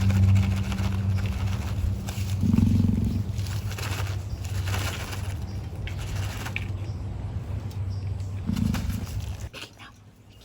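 Emu drumming: a deep, steady low drone, swelling briefly twice, that stops abruptly near the end.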